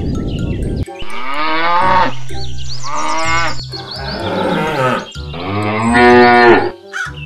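Cow mooing: about four long, drawn-out moos one after another, the last the loudest. A second of rushing noise comes before the first moo.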